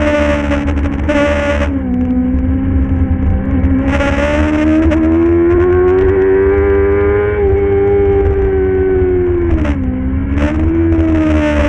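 Racing motorcycle engine running hard at high revs. The pitch climbs slowly, dips about two seconds in, then drops sharply about ten seconds in and climbs again as the rider shifts and works the throttle. A hiss comes and goes over it.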